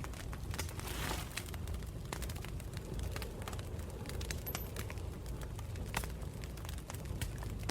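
Wood campfire crackling, with many irregular sharp pops over a low steady rumble and a brief hiss about a second in.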